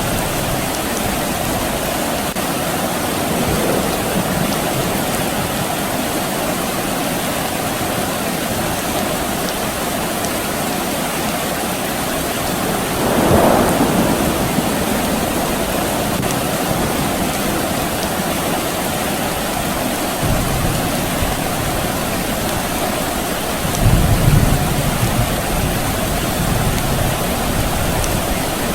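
Steady rain falling, with a brief swell of sound about halfway through and a low rumble of distant thunder near the end.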